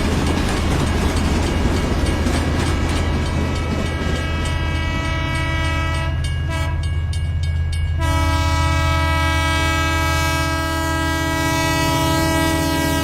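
Train horn sounding in long held notes over a steady low hum, with rapid clicking in the first few seconds; the horn's tone changes at about eight seconds and dips slightly in pitch near the end.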